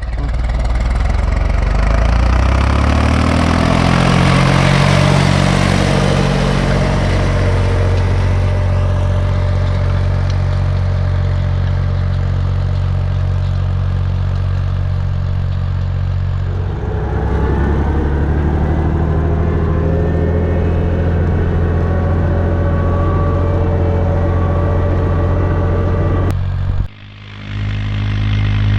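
Ursus C-360 3P tractor's four-cylinder diesel engine working a field. It revs up over the first few seconds, then runs steadily, with its note shifting about 17 seconds in. The sound drops out briefly near the end, then comes back.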